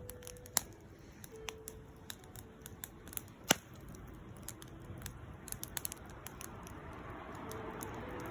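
Wood fire crackling, with scattered sharp pops at irregular intervals, the loudest about half a second and three and a half seconds in, over a soft hiss that grows toward the end.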